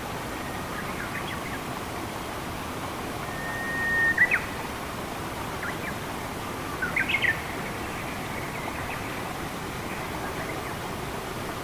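Steady rush of flowing water with wild birds calling over it: faint chirps early on, a held whistle that swells and ends in a quick flourish about four seconds in, and a short run of chirps about three seconds later.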